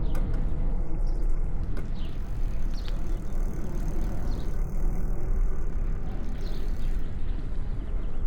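Steady low rumble of riding a bicycle along city streets, with a few faint light clicks.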